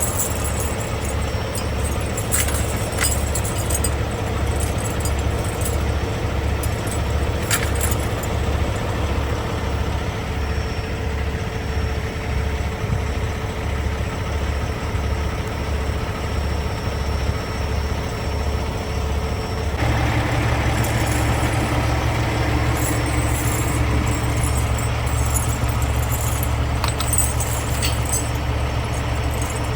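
Logging truck's diesel engine running, heard from inside the cab as a steady low drone with an even throb. About twenty seconds in, the engine note steps up and grows slightly louder. A few light clicks or rattles sound now and then.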